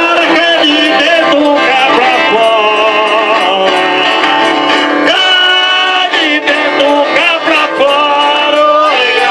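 Live Brazilian folk music from a Folia de Reis group: an eight-bass button accordion (sanfona de 8 baixos) playing with string instruments in a steady, sustained melody.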